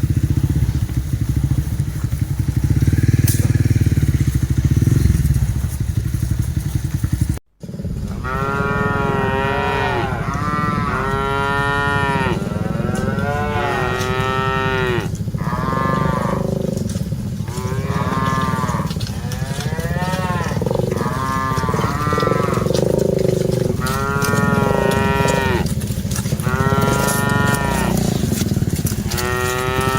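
A steady low engine rumble, then after a brief cut, cattle mooing over and over, one call every second or two, over a continuing low rumble.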